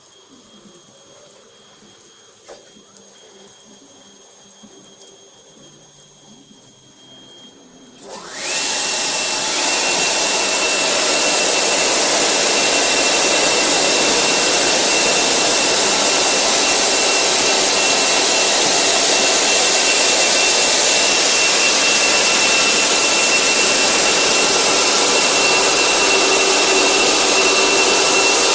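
The blowers of an in-bay touchless car wash dryer switch on abruptly about eight seconds in and run steadily: loud rushing air with a high whine. Before that there is only a quiet machine hum.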